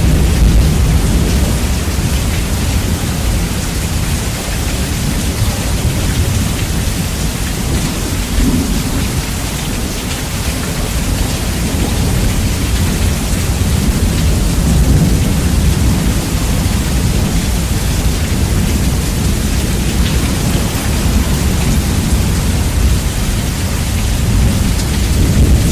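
Heavy rain with rolling thunder, bass-boosted so the low rumble is loud and heavy, swelling and easing slowly.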